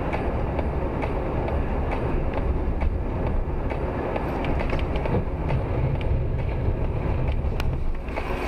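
Steady rumble of a moving vehicle heard from inside the cabin, road and running noise with occasional small knocks and rattles.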